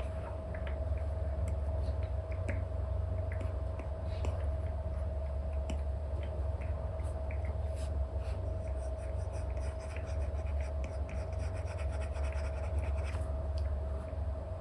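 Apple Pencil 2 tip, fitted with an Elecom replacement nib, scratching and tapping on an iPad's paper-feel screen protector in short, irregular brush strokes, over a steady low hum.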